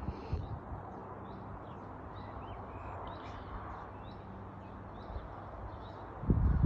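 Small birds chirping, scattered short high calls over a faint steady low hum. About six seconds in, a run of loud low thumps.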